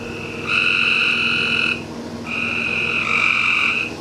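Frogs croaking in chorus: long trilled calls, each held for over a second, repeating with short gaps and overlapping, over a steady low hum.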